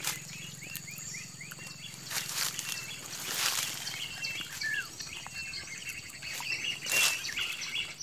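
Small birds chirping: quick series of short, downward-sliding chirps, with one longer falling whistle about halfway through. A few brief bursts of noise break in, the loudest near the end.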